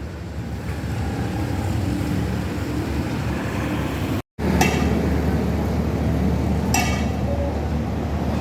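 Steady low rumble of a jet airliner passing overhead. The sound cuts out for an instant just over four seconds in, and two short sharp clinks follow in the second half.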